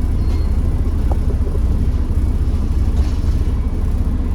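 Steady low rumble of a bus's engine and road noise, heard from inside the moving bus.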